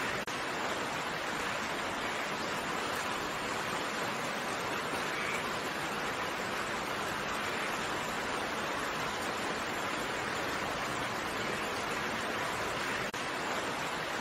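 Steady rain, a dense even hiss of falling drops, with two momentary dropouts, one just after the start and one near the end.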